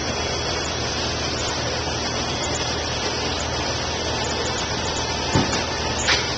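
Drain-cleaning equipment running steadily: a continuous rushing noise over a low, even engine hum, with a couple of brief knocks near the end.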